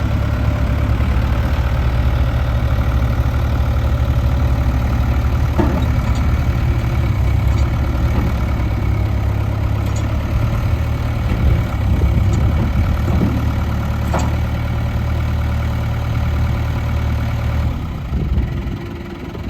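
1997 New Holland 4835 tractor's diesel engine idling steadily, with a few light clicks over it. The engine stops near the end.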